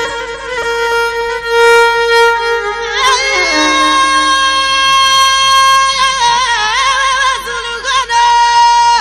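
Music: a bowed fiddle playing a slow, ornamented melody with vibrato, long held notes that waver and slide.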